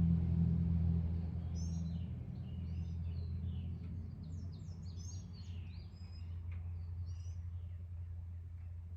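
Small birds chirping and trilling in quick short phrases, over a steady low hum that fades over the first couple of seconds.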